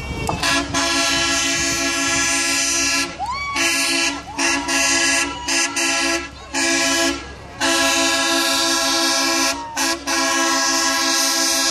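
Truck air horn sounding a steady low chord in a string of long blasts with short breaks, the longest about two seconds.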